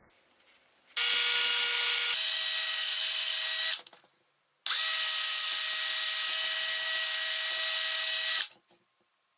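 Sandblasting gun blasting abrasive to strip paint and rust off steel toy parts, in two bursts of several seconds each: a loud steady hiss with a whistling tone that steps up in pitch partway through the first burst.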